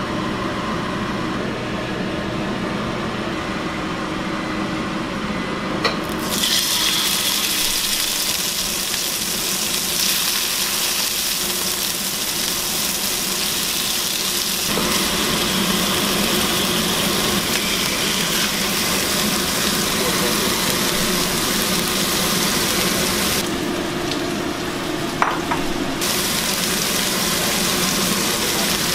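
Marinated monkeyface prickleback fillets frying in hot oil in a wok, a steady sizzling hiss over a low hum. The sizzle jumps up sharply about six seconds in and stays loud.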